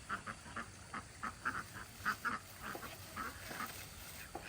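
Ducks quacking: a quick string of short, nasal calls, two or three a second, that fades toward the end.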